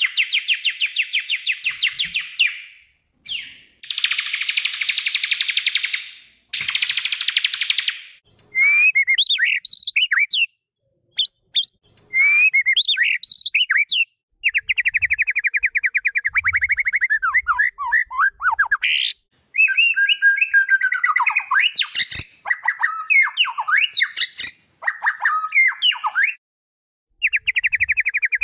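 White-rumped shama (murai batu) singing: rapid buzzy trills and rattles alternate with quick whistled glides and varied phrases, with short pauses between them. There is a single sharp click near the middle.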